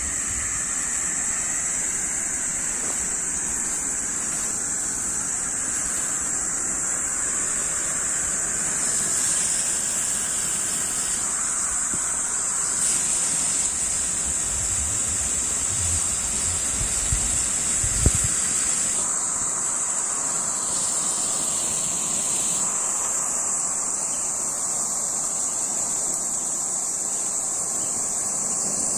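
Pyrotechnic flares burning on the ground with a steady rushing hiss, under a constant high-pitched whine. A couple of faint knocks come about two-thirds of the way through.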